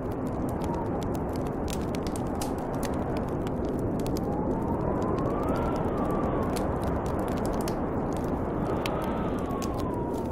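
Snowstorm wind blowing steadily, with a thin whistling howl that rises and falls in pitch twice, over the scattered pops and crackles of a wood fire.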